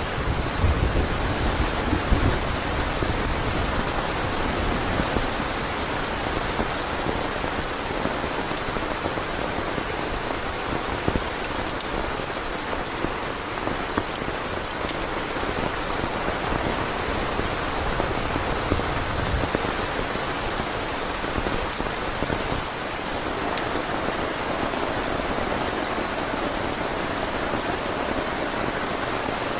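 Heavy rain falling steadily on a tent, an even hiss of drops. A low rumble in the first couple of seconds fades out.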